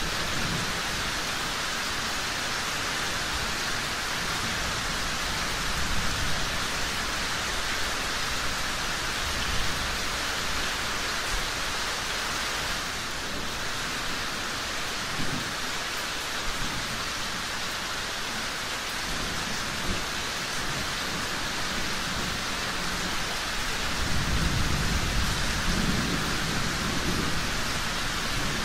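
Steady rain, a dense even hiss, with a few brief pops and a low rumble that swells near the end.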